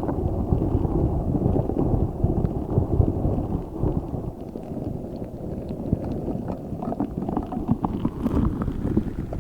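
A giant spiky orbeez-filled squishy ball being squeezed and kneaded close to the microphone. It makes a dense, continuous low squishing rumble, with small crackles that grow more frequent in the second half.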